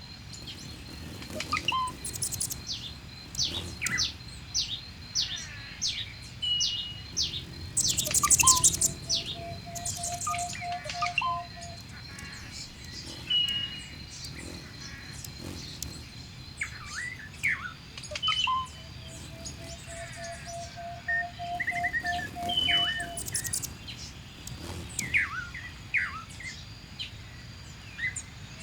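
Birdsong ambience: many birds chirping and whistling, mostly short high notes, with a long steady low whistle heard three times, each held for a few seconds.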